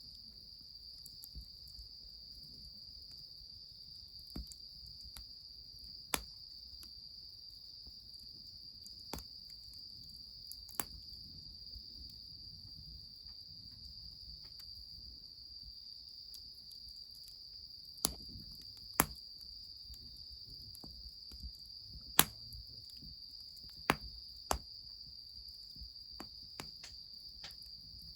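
Crickets trilling steadily, with sharp pops and cracks from a wood fire every few seconds, several louder ones in the second half.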